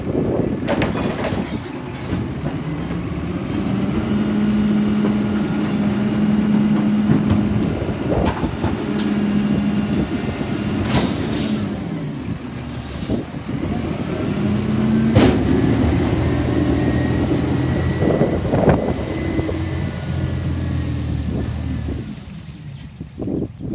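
Garbage truck running on its route, the engine speeding up and holding at higher revs as the hydraulics work, with several bangs and two short air hisses about eleven and thirteen seconds in. The sound drops away near the end.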